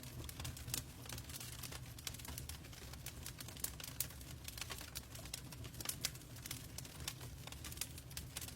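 Wood fire in a fireplace crackling, with many irregular sharp pops over a steady low rumble, and rain falling steadily underneath.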